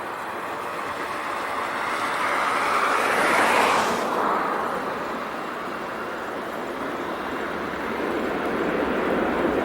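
Jet airliner engines running with a steady rushing roar that swells to a peak about three and a half seconds in, then eases off.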